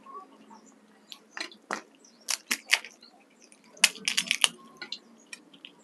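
Eating sounds: crisp panipuri shells cracking and crunching as they are bitten and chewed. Irregular sharp cracks, with a quick run of them about four seconds in.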